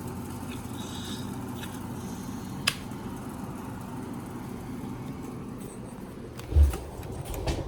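Window air conditioner running with a steady low hum. There is a single sharp click a little under three seconds in, then a loud low thump and a few lighter knocks near the end.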